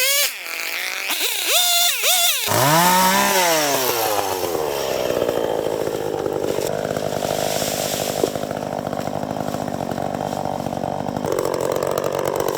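Echo two-stroke chainsaw revved high twice. About two and a half seconds in, the revs fall and it runs on steadily as it settles into cutting the felled tree into pieces.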